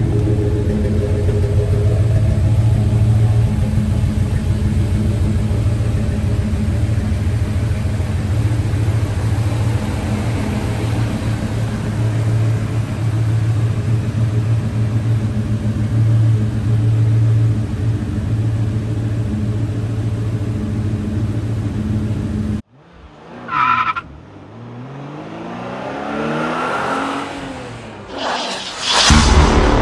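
1994 GMC Sierra 1500 pickup engine running steadily, cutting off abruptly about 23 seconds in. It is followed by a short burst and sweeping tones that lead into music.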